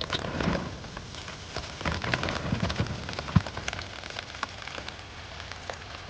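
Chopped mushrooms and onions sizzling and crackling in a hot frying pan, just tipped in to stir fry.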